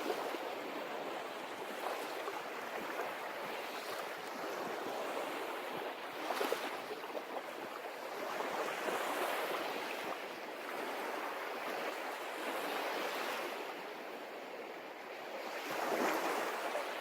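Sea waves breaking on a beach: a continuous rush of surf that swells and eases every few seconds, with the strongest surge near the end.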